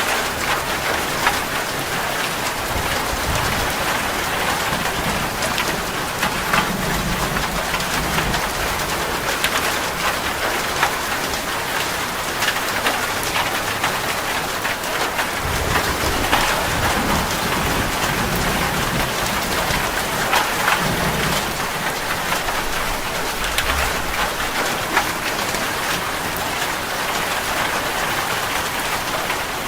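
Steady rain falling on a surface, with scattered sharp drop ticks and low rumbles rising and fading several times.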